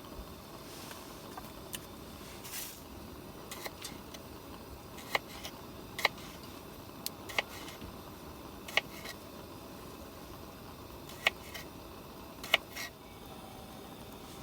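Wood campfire crackling: sharp single pops at irregular intervals, a second or more apart, over a faint steady background.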